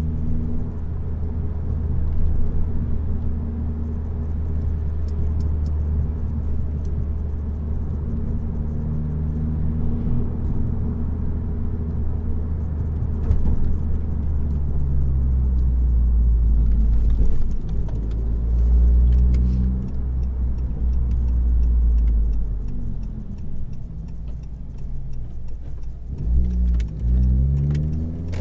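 Exhaust of a 2018 Honda Accord with its resonator and muffler deleted, heard on the move: a steady low drone whose pitch shifts with engine speed, dipping and then climbing again near the end.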